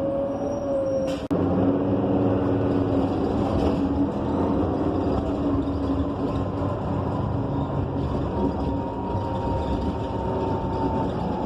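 Interior sound of a Gillig BRT Plus transit bus under way: its Cummins Westport ISL G natural-gas engine and Allison B300R automatic transmission give a steady drone with a low rumble and several held tones. The sound cuts out for an instant a little over a second in, and a faint thin whine is held for a few seconds near the end.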